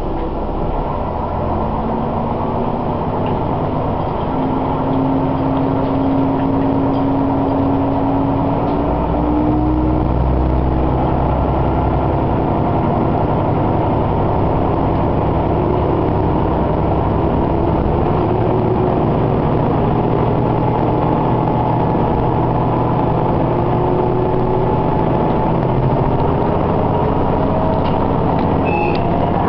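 Diesel railcar's engine and drivetrain heard from inside the carriage, pulling the train up to speed. Its whine rises in pitch several times over the wheel and rail noise.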